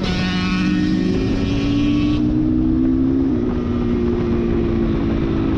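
Dirt bike engine running under way, its pitch climbing slowly, with a step in pitch a little over three seconds in like a gear change.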